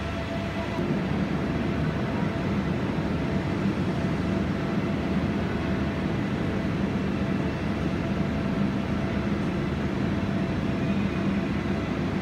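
Steady mechanical drone of a diesel train standing at the platform, its engines idling with a low hum, growing slightly louder about a second in.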